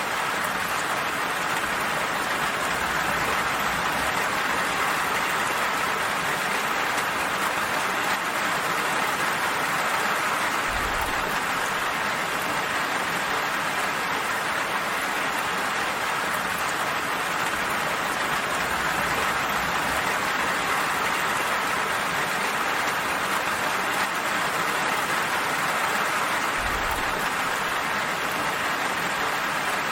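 Steady rain falling, an even hiss, with two brief low thuds.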